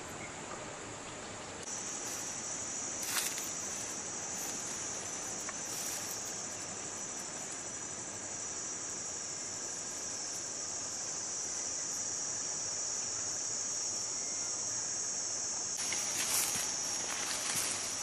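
Insects chirring in one steady, high-pitched drone that grows louder about two seconds in, with a few sharp clicks. Near the end there is crackling and rustling, like movement through dry vegetation.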